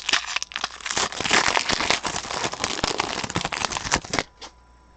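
Foil wrapper of a Panini Prizm football card pack being torn open and crinkled, a dense crackle that stops suddenly about four seconds in.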